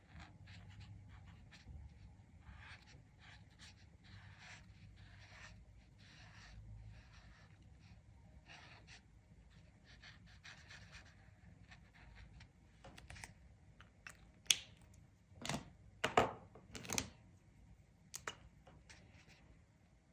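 Colouring strokes on paper: short, faint scratchy strokes at an irregular pace, with a few louder sharp knocks and clicks about three-quarters of the way through.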